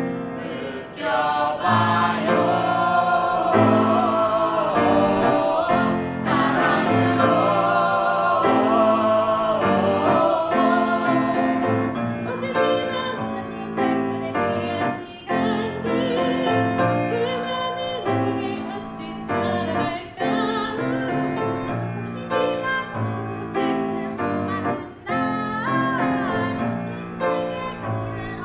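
Live singing, several voices in a choir-like blend, with piano accompaniment.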